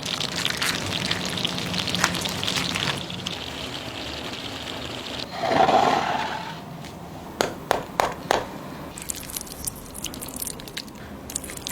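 Water running and splashing, then a quick run of four sharp knocks.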